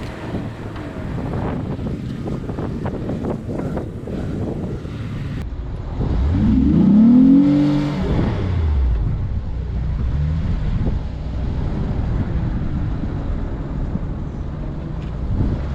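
Off-road vehicle driving over rough ground: engine running under the rumble of tyres and body. About halfway through the engine revs up with rising pitch, then falls back.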